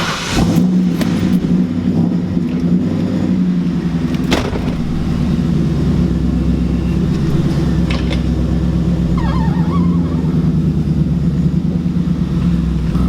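Ford Mustang's V8 engine running steadily, with one sharp click about four seconds in.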